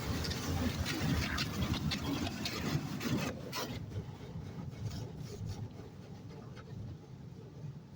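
High-pressure water jets of a touch-free automatic car wash spraying against the car, heard from inside the cabin as a rough, crackling hiss. It fades steadily, the hiss thinning out after about three seconds as the spray moves away.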